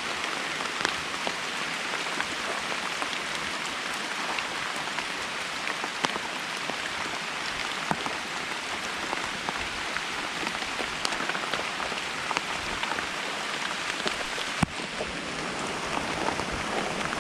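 Steady rain falling, a dense hiss with scattered sharp drop hits close by.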